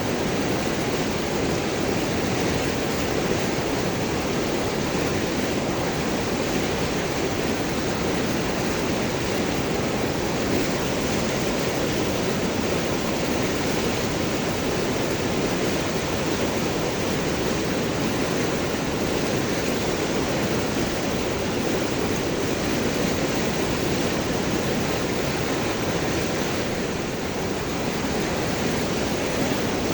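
River water rushing and gurgling over and around large rocks, a steady even flow.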